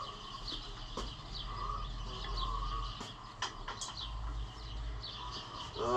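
Small birds chirping repeatedly in the background over a steady low rumble, with a few sharp clicks or knocks about one second and three seconds in.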